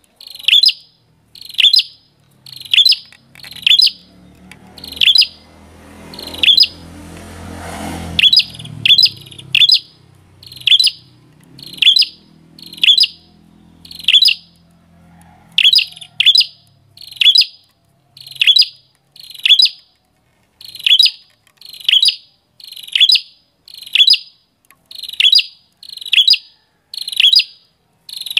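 A bird calling one short, sharp chirp over and over, about once a second, with a brief pause partway through. A fainter low rumble rises and fades behind the calls for a few seconds early on.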